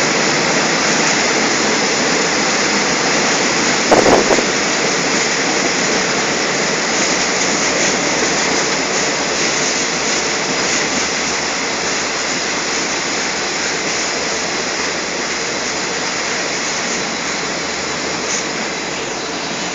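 Moving passenger train heard from its open window: a steady rushing of wind on the microphone over the train's running noise, with a brief thump about four seconds in.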